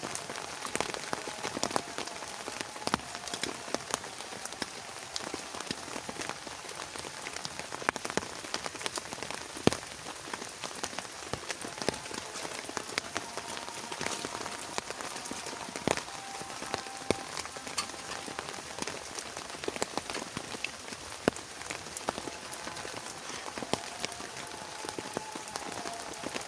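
Heavy rain falling steadily, with many sharp, separate drop hits on a nearby surface.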